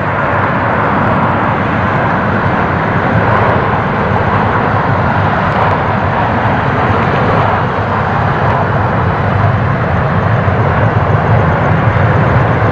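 Jet airliner engines making a loud, steady rush of noise.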